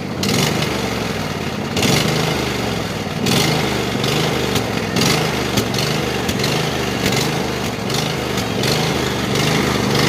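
Riding lawn mower's engine running steadily, its note wavering up and down, with repeated gusts of wind buffeting the microphone.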